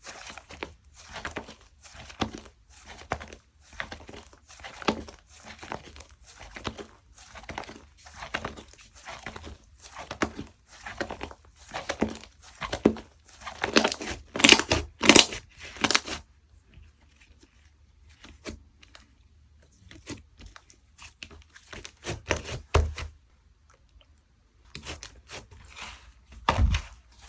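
Clay-mixed slime being squished and pressed by hand, a steady run of sticky crackles and clicks about two a second, with a few louder pops about halfway through. Then a quieter stretch, and a couple of dull thumps near the end.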